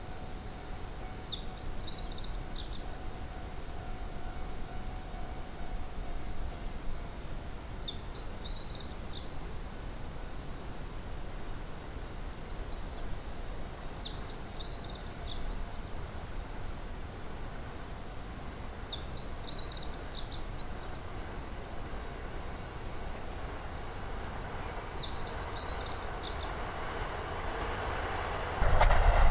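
Insects calling in a steady high-pitched chorus, with a short burst of chirps repeating about every six seconds.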